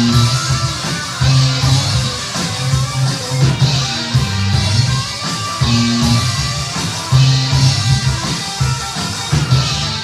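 Live rock band playing an instrumental passage: electric guitar with fast lead lines over bass guitar and a drum kit with cymbals.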